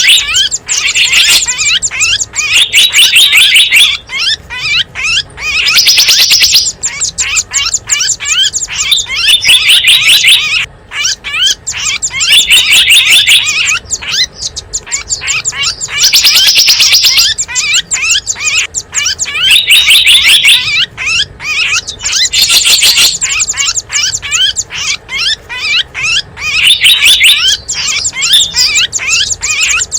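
Small wild songbirds' high, rapid chirping calls, played as a bird-luring (pikat) call: dense bursts of chirps that return every three to four seconds, loud throughout.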